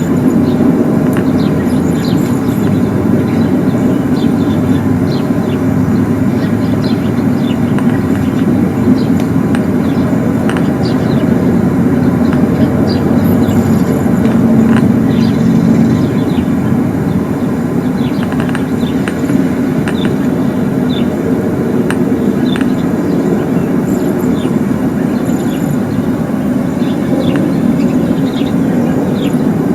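A steady low droning rumble of the kind posted as a mysterious 'strange sound' in the sky, with birds chirping over it.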